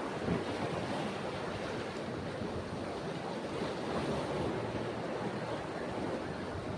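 Ocean waves washing onto a beach in a steady surf noise, with some wind.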